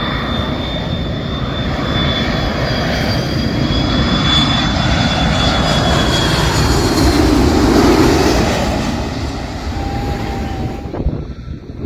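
Airliner's engines passing low overhead: a loud roar with a high, slightly falling whine, building to its loudest about eight seconds in and then easing, before it cuts off abruptly near the end.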